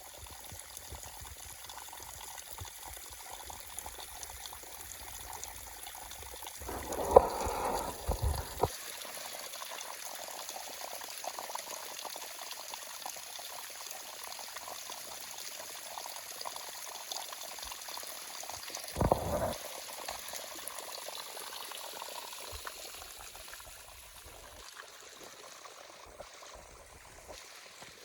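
Rainwater runoff after hours of heavy rain, flowing and pouring steadily through the forest. Two short louder sounds break in, about seven and nineteen seconds in.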